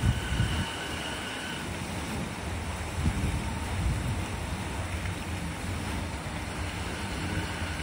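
Wind buffeting the microphone over the low rumble of an electric commuter train creeping slowly past, with a faint steady two-note tone near the start and again near the end.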